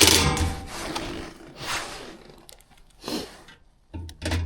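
Furnace gas burners being handled and slid into place over their orifices: a few short scrapes and knocks of metal, the loudest at the very start.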